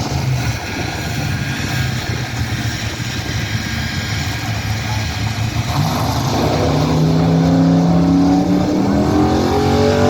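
A pulling vehicle's engine running, its pitch climbing from about six seconds in as it revs up, and growing louder toward the end.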